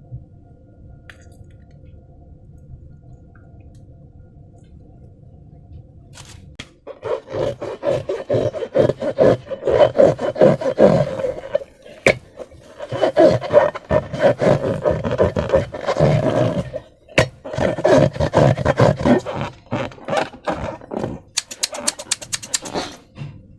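Hands squeezing and rubbing a slime-filled rubber balloon, making dense squelching and rubbery squeaking in three bouts of a few seconds each. These start about seven seconds in, after a low faint hum. A quick run of sharp crackles follows near the end.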